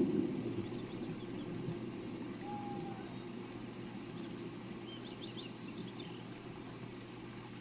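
Steady rain noise with a low rumble that eases off over the first seconds. A short whistled bird note comes about two and a half seconds in, and a quick run of high bird chirps about five seconds in.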